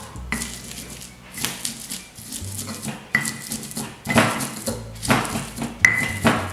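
Kitchen utensils knocking and scraping in a run of separate strokes, with a few short ringing clinks.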